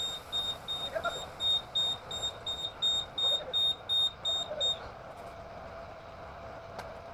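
Reversing alarm on a Scania P310 flatbed tow truck beeping rapidly, about three high beeps a second, as the truck backs up; the beeping stops about five seconds in, leaving a steady drone.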